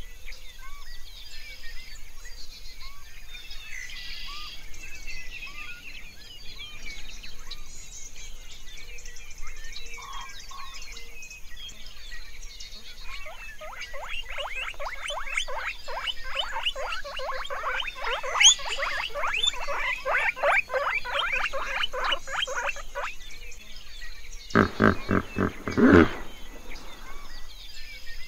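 A run of animal calls: light scattered bird chirps, then about nine seconds of rapid high squeaking from a small rodent, then one loud, deep call near the end.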